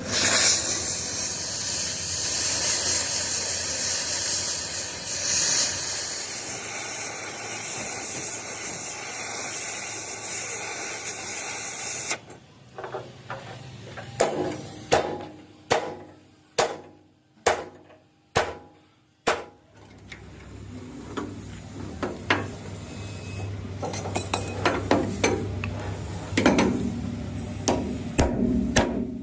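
A loud steady hiss that cuts off suddenly about twelve seconds in, then a run of about a dozen hammer blows on metal, roughly two a second. After the blows come a low steady hum and scattered knocks.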